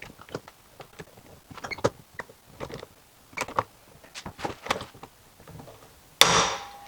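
Hand tools clicking and knocking against a plastic compost tumbler lid ring as it is fastened, then a sudden loud sharp snap with a brief ring near the end.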